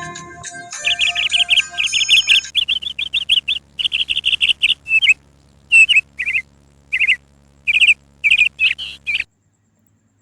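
A small bird chirping in rapid runs of short, high notes with brief pauses between runs, cutting off suddenly about nine seconds in. Background music fades out under the first couple of seconds.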